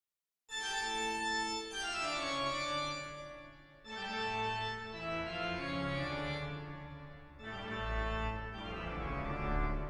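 Organ music starting abruptly about half a second in: slow phrases of sustained chords, a new phrase beginning roughly every three and a half seconds.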